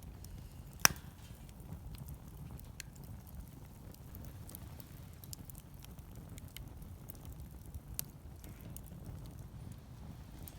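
Wood fire crackling, with scattered small ticks and two sharp pops over a low steady rumble. The loudest pop comes about a second in and another near the end.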